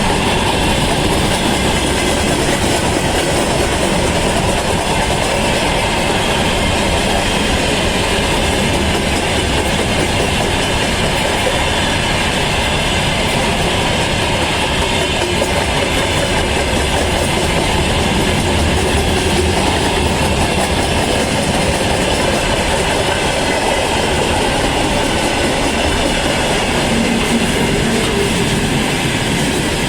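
Freight train running past close by: a loud, steady rumble of wagon wheels on the rails.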